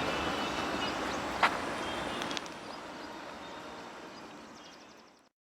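Passenger train rolling past and fading away, with one loud clack of wheels over a rail joint about a second and a half in and a few lighter clicks soon after. The sound dies away and cuts off just before the end.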